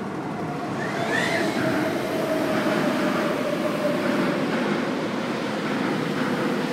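MTR Tung Chung Line A-train pulling into the station and running past at platform level: a steady rush of wheels and running gear, with a tone that slowly falls in pitch as the train slows. A short high squeal comes about a second in.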